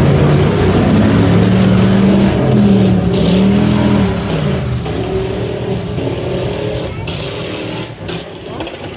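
Race trucks' engines revving hard as the field gets rolling, the pitch dipping and rising about three seconds in, then the sound fading after about four seconds as the trucks pull away.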